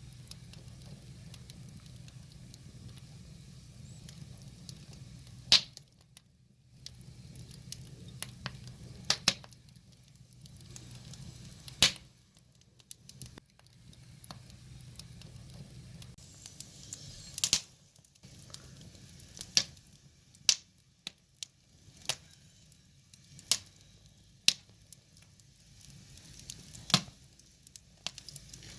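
Wood fire crackling, with sharp pops of burning logs every second or two. A low rumble of the burning runs under the first half and drops away a little past halfway.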